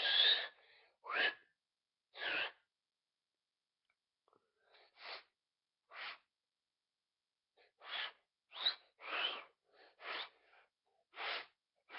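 Mouth-made 'raindrop' noise: short breathy puffs blown through the teeth, about a dozen of them at uneven intervals, the first the loudest, some with a brief sliding pitch like a drip.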